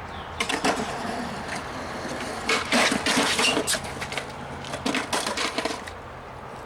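Skateboard riding on concrete: wheels rolling, with a run of clacks and scrapes from the trucks and deck, loudest about three seconds in.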